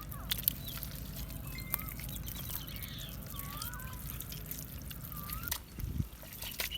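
Water trickling and splashing, with scattered sharp clicks and a few short whistling chirps.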